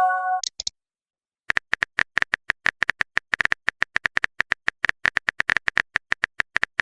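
Phone-keyboard typing sound effect: a long run of rapid, even clicks that starts about a second and a half in. Before it, a short chime from a new message dies away in the first half-second.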